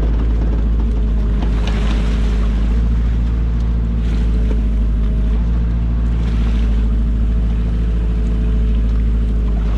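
A small fishing boat's engine running steadily with a constant low hum, while wind and water hiss rise briefly twice.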